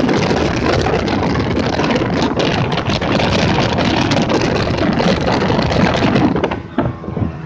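Motorboat running at speed, its engine mixed with the rush of wind and water, steady and loud; it drops off suddenly about six and a half seconds in.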